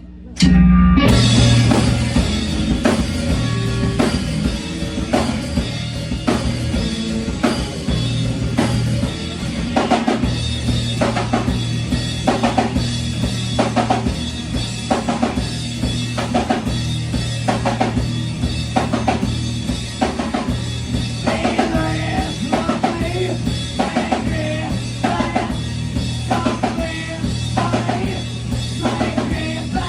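Live band playing, drum kit keeping a steady beat over a bass line; it comes in loud just after the start.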